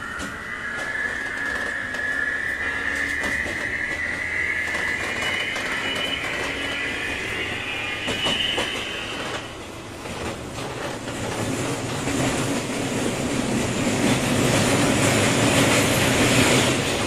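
201 series electric train heard from inside a motor car, accelerating under power with a whine that rises steadily in pitch. The whine cuts off about nine seconds in, and the wheel and rail running noise then swells louder toward the end.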